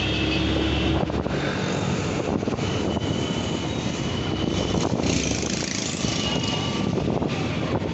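Steady road noise from riding on a scooter in traffic: engine, tyres and wind on the microphone, with a few brief high tones.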